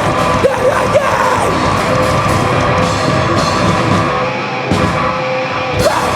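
Heavy rock band playing live, loud and dense, with distorted guitars holding sustained notes and yelled vocals over it; the drums and bass drop out briefly about two thirds of the way through.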